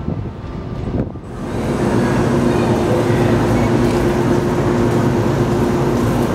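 485-series electric train pulling into the platform, its wheels clicking over rail joints. About a second in, a louder steady hum with several fixed tones takes over and holds.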